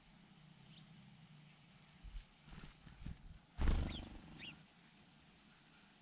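A few short chirps from small birds, two of them close together about three and a half to four and a half seconds in. Under them comes a sudden low rumbling flutter, the loudest sound, which dies away within about a second.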